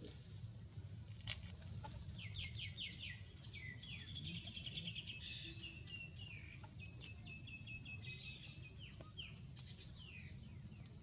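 A rapid series of high-pitched chirping calls, many of the short notes sliding down in pitch, starting about two seconds in and dying away near the end, over a steady low rumble.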